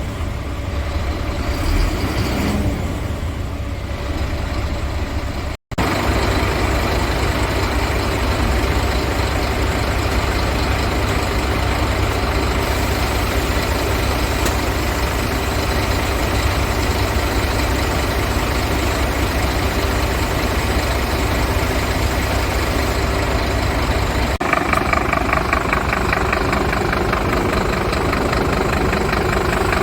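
Scania P230 truck's five-cylinder diesel engine idling steadily. It cuts out briefly a little over five seconds in, then runs on, and its sound changes a few seconds before the end.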